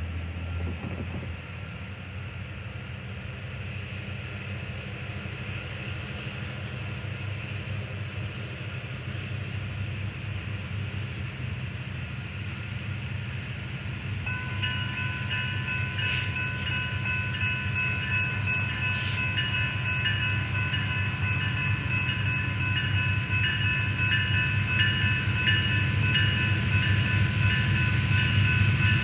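Diesel-led freight train approaching, its low engine rumble growing steadily louder. From about halfway a steady high ringing tone sounds over it.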